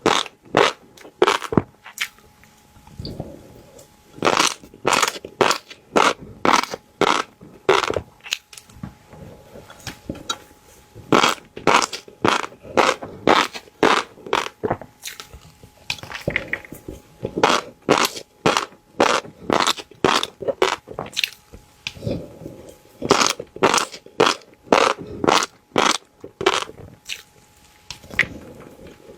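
Fish roe being bitten and chewed, with many sharp crunching pops in quick runs broken by short pauses.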